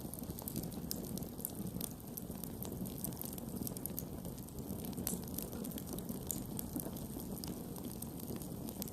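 Campfire burning with a steady low rush of flames and frequent sharp crackles and pops from the wood.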